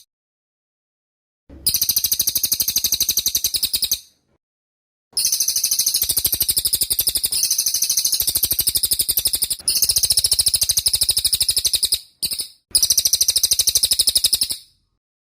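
Cililin songbird singing its rapid, high chirping song in long bouts of fast repeated notes, broken by short silences: about a second and a half in, around four seconds, and briefly near twelve seconds.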